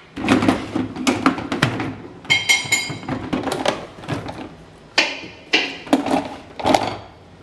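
Kitchen clatter: a run of sharp knocks and clicks from things being handled and set down, with a brief high ringing clink about two and a half seconds in.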